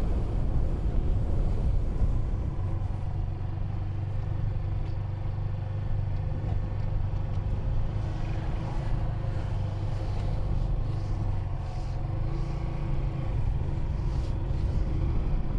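Honda 125cc learner motorcycle's engine running at low speed as it is ridden, a steady hum with small shifts in pitch.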